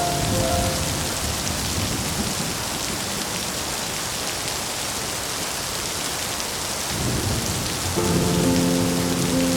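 Steady heavy rain hissing, with a low rumble of thunder swelling about seven seconds in. Soft held music notes fade out at the start and come back in near the end.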